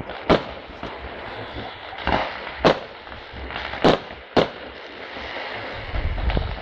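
Fireworks display: five sharp bangs from aerial shells bursting over about four seconds, over a steady crackle. A low rumble rises near the end.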